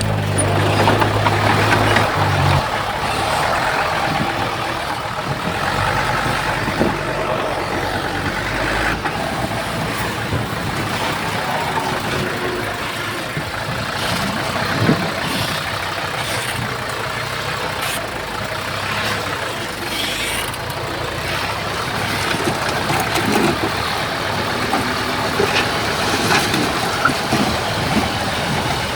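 Diesel engines of heavy earthmoving machines on a fill site (bulldozer and dump trucks) running steadily, with scattered clanks and knocks, one sharper clank about halfway through.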